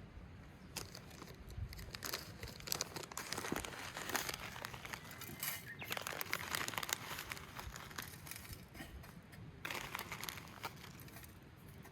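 Packet of cherry-wood smoking chips crinkling as it is opened and handled, with irregular light rustles and clicks.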